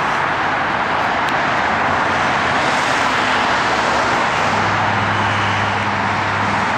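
Steady roar of heavy freeway traffic. About four and a half seconds in, a low engine hum joins it.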